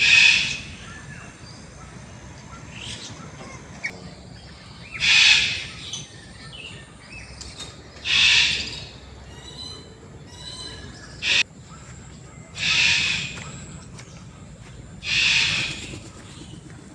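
A large bird repeating a loud, harsh call about every two and a half to three seconds, with quicker, thinner chirps from other birds in between.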